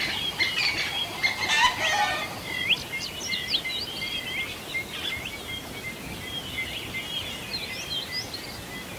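Songbirds chirping and whistling in quick, high calls throughout, with lower pitched fowl calls over the first two seconds or so.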